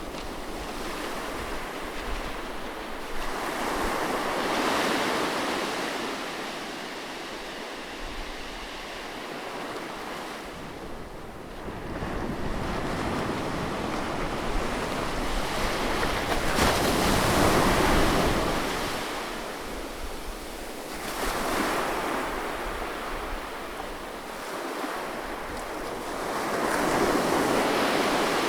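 Sea waves breaking and washing in, rising and falling in about four surges. The loudest surge comes about two-thirds of the way through.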